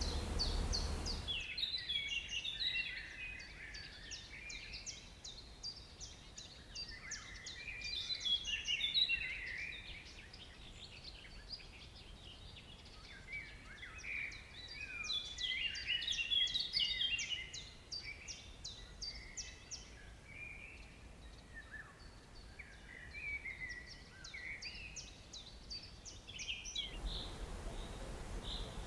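Bird song: a long, dense run of quick, high-pitched chirps and twittering warbles. A steady background hiss sits under the song at the start and near the end.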